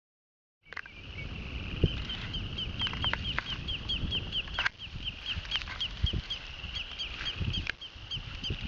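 A bird calling in a long run of short, sharp, evenly repeated notes, about four or five a second, over a low rumble of wind on the microphone.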